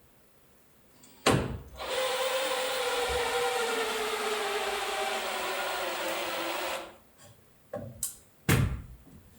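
A power tool runs for about five seconds, its motor tone sagging slightly under load, then stops abruptly. Sharp knocks come just before it starts and a couple more near the end.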